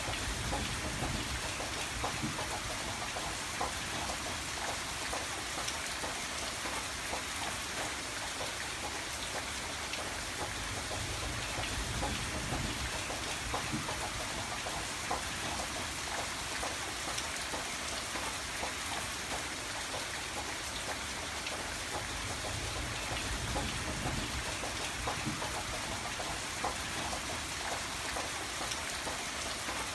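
Steady rain falling, an even hiss dotted with many individual drops ticking. A low rumble swells and fades a few times underneath.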